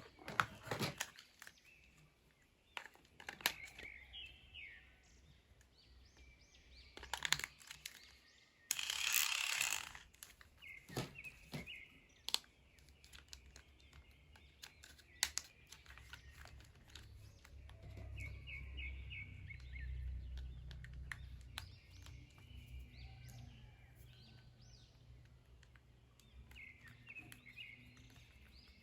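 Toy packaging being handled: scattered clicks and one brief loud crinkling rustle about nine seconds in. Birds chirping in the background.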